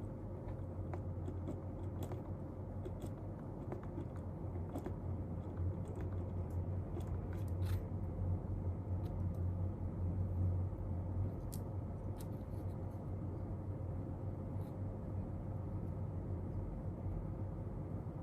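Steady low hum of room noise with a faint steady tone, broken by scattered faint small ticks and taps, as of desk work such as writing.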